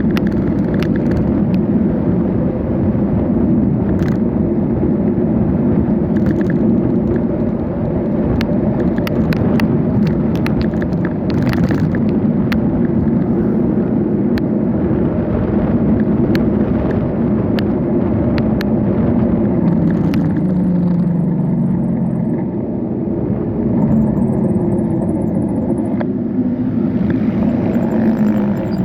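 Steady rumble of a bicycle ride as heard from the bike: wind and tyre-on-road noise, with sharp rattling clicks over the first half. A low hum that shifts in pitch joins in the last third.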